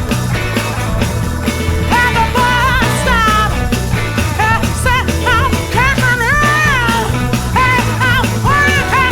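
Blues-rock band playing: a melodic lead line that bends and wavers in pitch, over a steady bass and drums.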